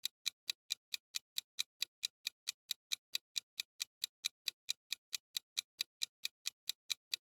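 Clock-ticking sound effect: a steady run of sharp, evenly spaced ticks, about five a second, used as a quiz countdown for guessing the answer.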